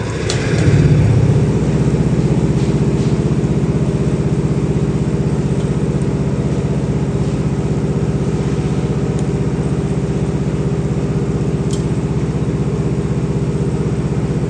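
A motorised machine spins up, its pitch rising, then runs steadily with a fast, even pulsing hum.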